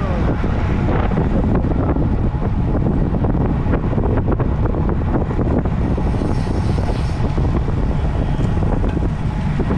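Wind rushing over the microphone while cycling on a road bike: a steady low rumble of wind and road noise, with scattered faint clicks and knocks.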